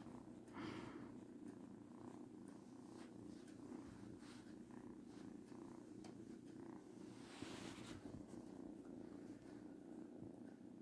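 Kitten purring steadily and faintly, with a brief scratchy noise about seven seconds in.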